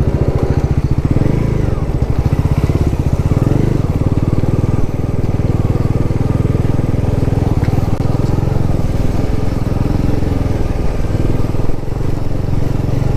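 Bajaj Pulsar NS400Z's 373 cc single-cylinder engine running steadily as the motorcycle is ridden, with a rapid even pulsing exhaust note.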